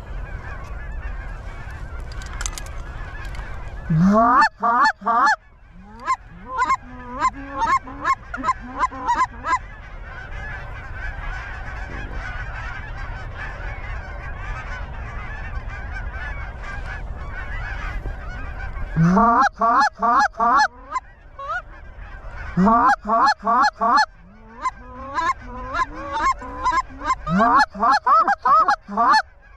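Geese honking: a steady clamor of many birds, cut by four loud, close bouts of sharp rising honks in quick runs of three or four. A low rumble of wind on the microphone sits underneath.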